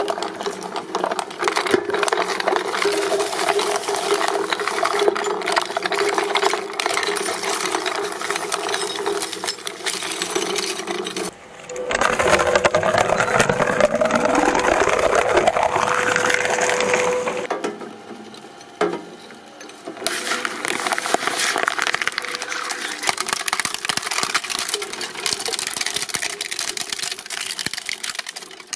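A press machine running with fast, continuous mechanical clattering over a steady hum. About a third of the way in the clatter gives way for several seconds to a louder steady tone with a whine rising in pitch, then after a brief quieter lull the clattering resumes.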